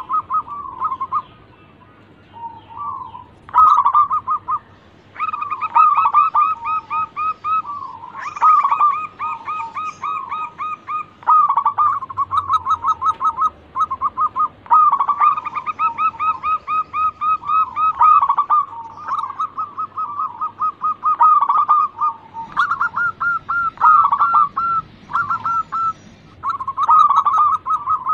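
Zebra doves (perkutut) cooing: runs of quick, repeated staccato notes, broken by short pauses.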